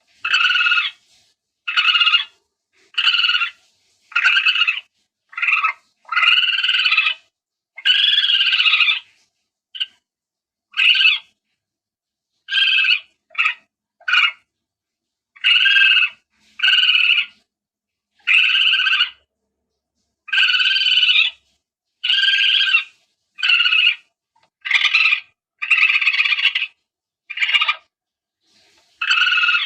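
Palm civet calls from a hunter's lure recording: a long run of separate calls about one a second, some short and some drawn out to about a second, each with several steady pitch bands, and dead silence between them.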